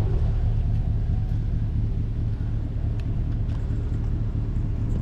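An engine running steadily, with a low rumble underneath.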